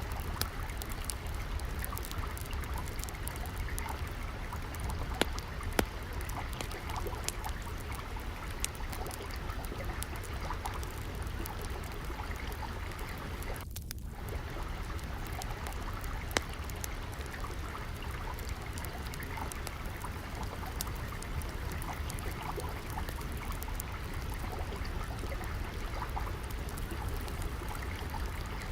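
Steady trickle of flowing water, with sharp crackles and pops of a wood fire scattered through it over a low rumble. The water sound dips briefly about halfway through.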